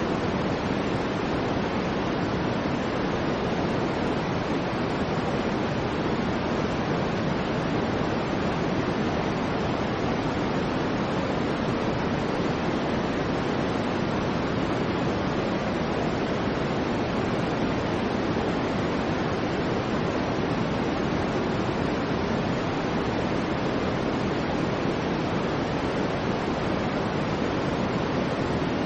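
Soft white noise: a steady, even hiss that is fuller in the low and middle range and fades toward the treble, with no changes or events.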